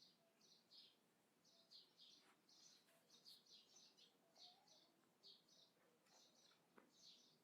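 Faint small birds chirping, a quick run of short high chirps repeating a few times a second.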